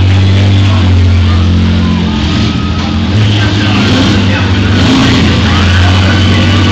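Demolition-derby minivan engines revving, mixed with loud rock music.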